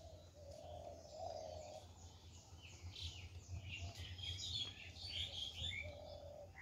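Several small birds chirping and twittering in short, quick calls, busiest in the middle, faint against a steady low hum.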